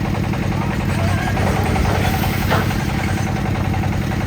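Concrete mixer's engine running steadily with an even low drone. A single short knock sounds about two and a half seconds in.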